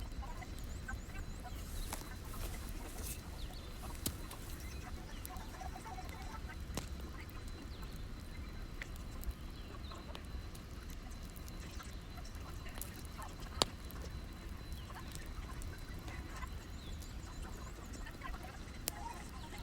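Wood fire crackling: scattered sharp pops over a low steady rumble, with a few faint squeaks and one louder pop a little past halfway.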